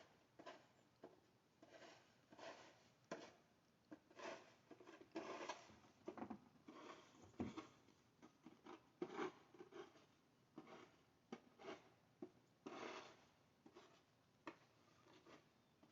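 Faint, irregular scuffs and rustles, about a dozen short ones, with no steady rhythm.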